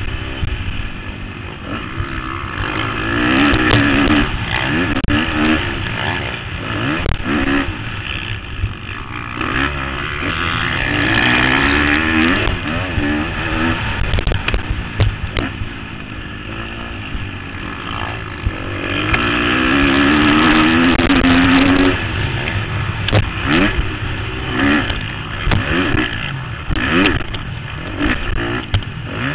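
2013 KTM 250 SX-F's single-cylinder four-stroke motocross engine revving hard and falling off repeatedly, the pitch climbing several times as the throttle is held on, with scattered sharp clattering knocks from the bike over rough dirt.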